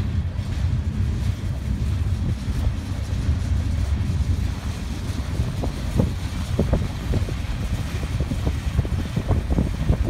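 Freight train cars rolling past close by: a steady low rumble of wheels on the rails, with wind buffeting the microphone. From about halfway, short clicks and knocks from the passing cars join in.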